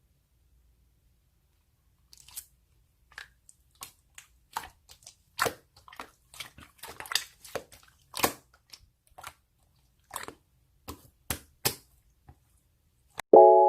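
Slime being worked by hand, giving irregular sharp clicks and pops as it is pressed and stretched, after a couple of seconds of silence. A piano-like jingle starts just before the end.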